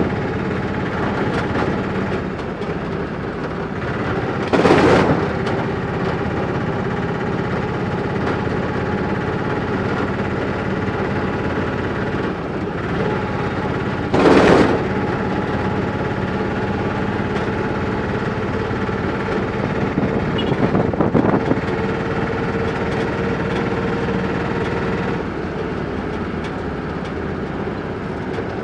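Motorcycle engine running steadily under way, with two brief loud bursts of noise.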